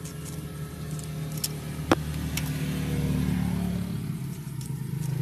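Road traffic going by: a passing vehicle's engine hum that swells and eases off, with one sharp click about two seconds in.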